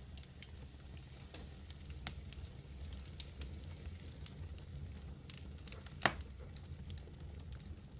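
Wood fire burning: a steady low roar with scattered crackles and small pops, and one loud pop about six seconds in.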